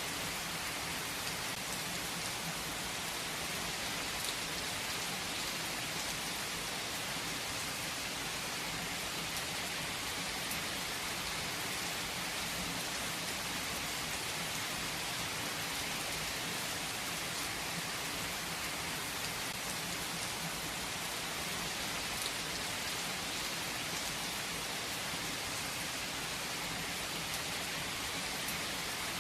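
Steady rain falling, an even hiss of many drops on a surface with a few fainter separate drop ticks.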